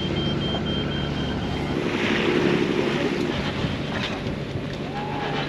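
Sailing boat motoring under engine in strong wind: a steady engine drone with wind buffeting the microphone and water rushing past the hull. A quick run of faint high beeps sounds in the first couple of seconds.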